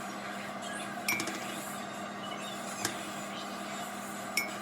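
Kitchen dishes and utensils clinking: three sharp clinks, two of them with a short ringing tone, over a steady low hum.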